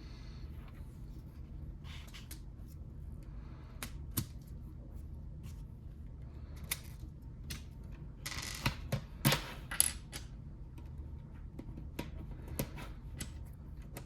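Plastic Lego bricks clicking and clattering as they are handled and snapped together, with a denser, louder rattle of pieces about two-thirds of the way in.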